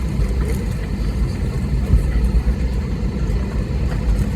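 Steady low rumble inside an airliner's cabin on the ground before take-off, from its engines and cabin air running.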